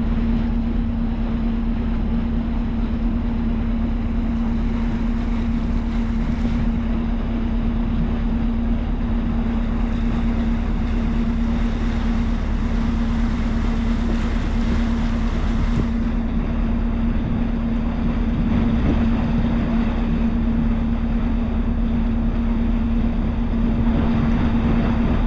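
A ship's engine running steadily with a constant hum, its propeller churning water to make an artificial current along the shore. Wind noise on the microphone.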